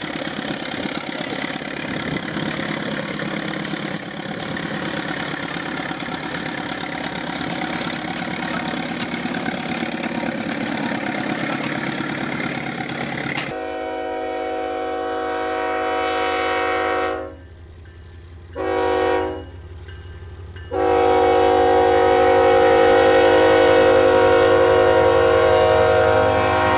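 A train running along the track with a steady rumble. About halfway through, a train horn sounds three blasts, each holding several notes at once: a medium blast, a short one, then a long, loud one.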